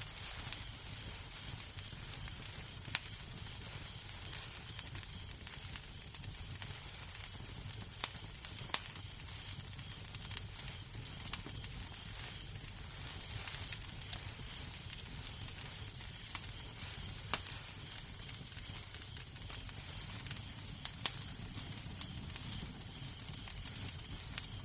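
Wood fire crackling in a fireplace: a steady hiss with scattered sharp pops, a few of them louder and several seconds apart, over a low rumble.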